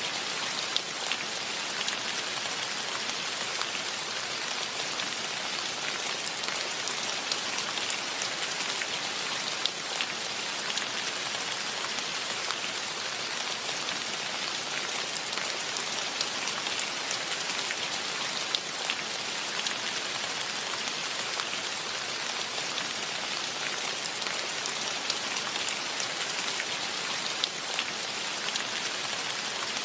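Steady rain falling, a dense even hiss with scattered close drops ticking on surfaces.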